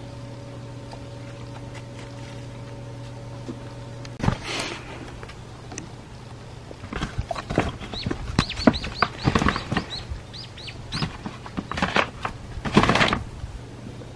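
Small birds chirping in a quick run of short, high, falling chirps, mixed with rustling and knocks. A low steady hum in the first few seconds stops about four seconds in.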